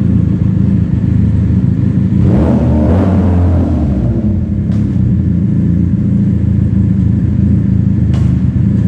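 Benelli TNT 300's parallel-twin engine running loud through a free-flow slip-on exhaust under riding, with the revs climbing briefly about two seconds in.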